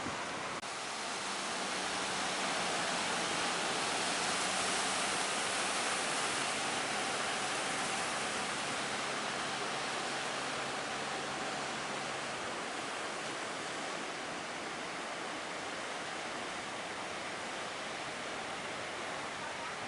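Steady rush of big breaking waves and surf, swelling a little in the first half and easing after, with a faint low hum underneath that fades out about two-thirds of the way through.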